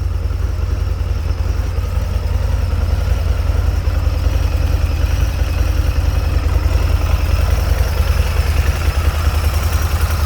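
2016 Harley-Davidson V-Rod Muscle's liquid-cooled Revolution V-twin idling steadily through its stock exhaust.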